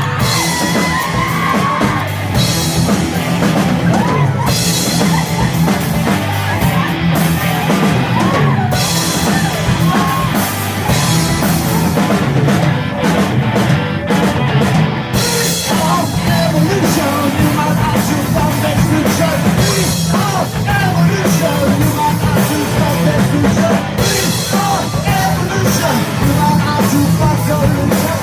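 Live rock band playing loud, with drums, electric guitar and shouted vocals. Bright cymbal crashes come and go.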